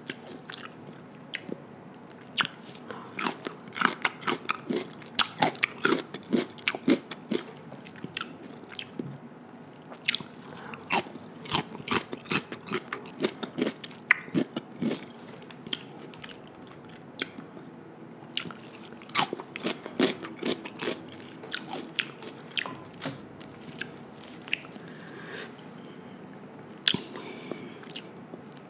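A person chewing seafood-boil food close to a microphone: many sharp, irregular mouth clicks, densest in the first half and sparser toward the end.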